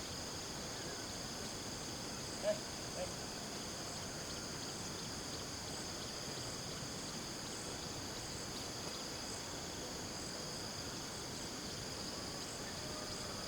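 Steady shrill chorus of insects over an even background hiss, with two brief short sounds about two and a half and three seconds in.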